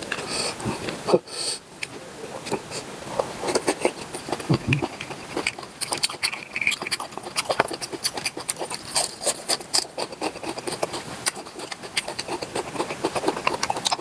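Close-up eating sounds: a person chewing, with many quick, irregular wet smacks and clicks of the mouth and food.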